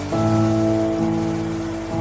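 Background solo piano music: slow, sustained chords that change about once a second.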